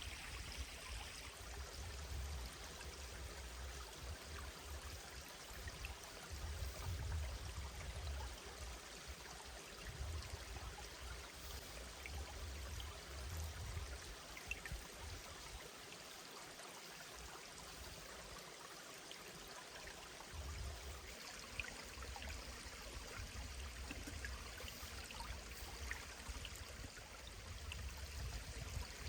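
Mountain stream running over rocks, a steady rush of water, with a low rumble that comes and goes underneath.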